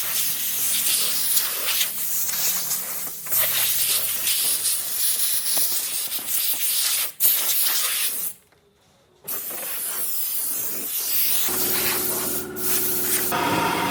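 Workshop tool noise: a steady, loud hiss of the kind a spray gun or sander makes, changing abruptly several times. There is a short near-silent break about eight seconds in, and a motor with a steady hum comes in near the end, turning to a higher whine just before the end.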